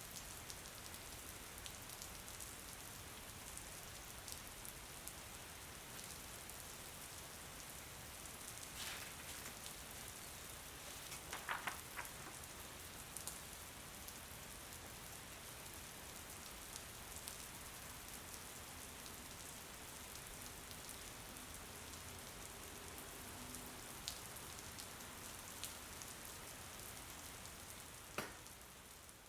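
Steady rain falling, an even hiss with scattered drop ticks. A few louder taps stand out around the middle and near the end.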